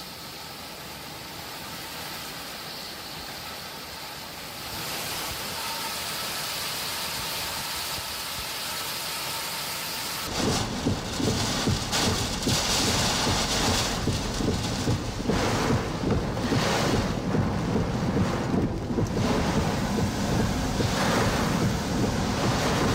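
Hurricane-force storm wind: a steady hiss of wind and rain, then about ten seconds in a sudden switch to louder, irregular gusts buffeting the microphone.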